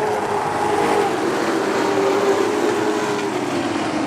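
Race truck engines running on the track, a steady engine drone whose pitch eases down near the end.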